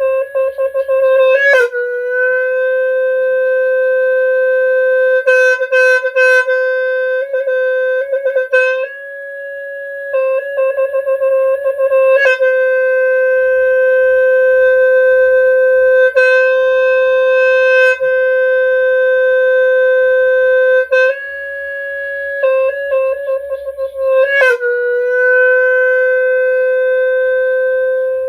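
Khmer sneng (traditional horn) blown in long, steady held notes on one pitch. Each note is broken every few seconds by a brief warble or dip before settling again, and twice the note steps slightly higher for a few seconds.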